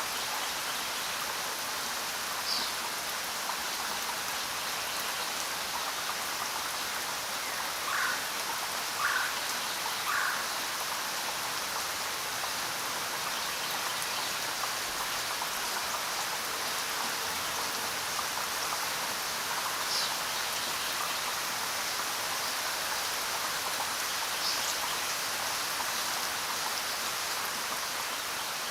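Steady rain falling, an even hiss, with a few short louder sounds standing out from it at intervals, three of them close together about eight to ten seconds in.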